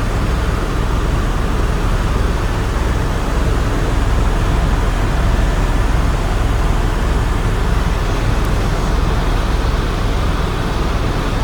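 Airbus tour helicopter in flight: a steady, loud drone of rotor and turbine noise with a strong low rumble.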